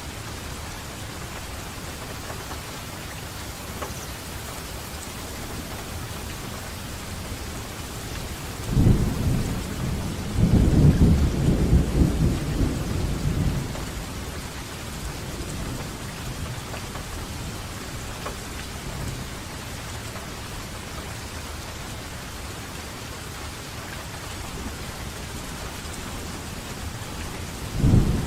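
Steady rain falling, with a low rumble of thunder rising about nine seconds in and rolling for some five seconds, and another peal starting near the end.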